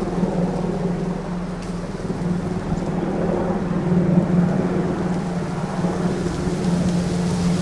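Aircraft engine droning overhead: a steady low hum that swells and fades slightly.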